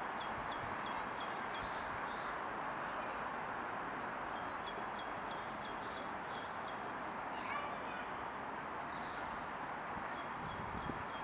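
A small bird singing in runs of quick, high repeated chirps, over a steady low rush of outdoor background noise.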